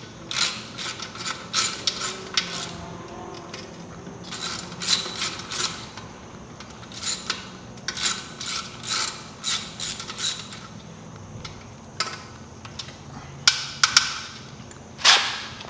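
Socket ratchet clicking in short runs of quick strokes, tightening the mounting bolts of a dirt bike's exhaust pipe. A few louder single knocks come near the end.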